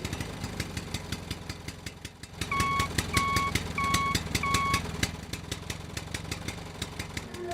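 Small engine running with a rapid, even ticking. Four short, evenly spaced beeps sound around the middle.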